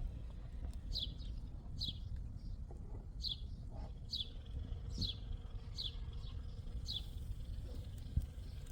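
A small bird chirping over and over, one short falling chirp about every second, over low outdoor rumble, with a single knock near the end.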